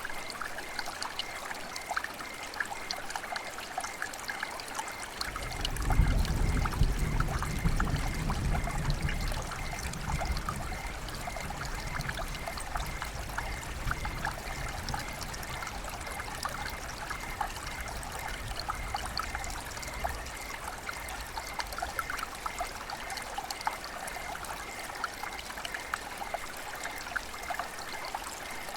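Flowing river water: a steady rush dotted with many small splashes. About five seconds in, a low rumble rises suddenly, then fades away over the next ten seconds or so.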